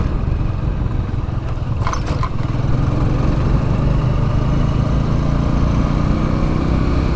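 Motorcycle engine running under way on a rough, broken road, with a short double rattle about two seconds in.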